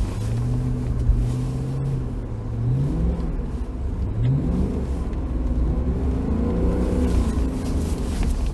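Mercedes-Benz W211 E63 AMG's M156 6.2-litre V8 revving with traction control switched off. It holds a steady note for the first couple of seconds, then the revs climb sharply twice and swell up and down again near the end.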